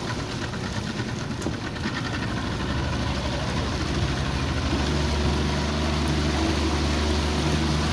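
Motorboat engine running steadily, getting louder about halfway through, with wind and water noise underneath.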